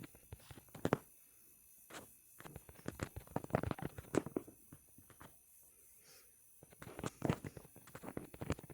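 Irregular clicks, taps and rustling, in dense clusters about a third of the way in and again near the end.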